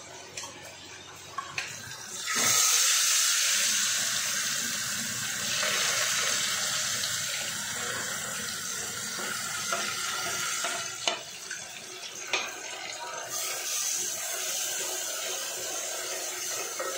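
Chopped onions sizzling in hot oil in a metal pot. The sizzle starts suddenly about two seconds in as they are tipped in and carries on, easing for a moment near the middle, with a few sharp clinks of utensils against the pot.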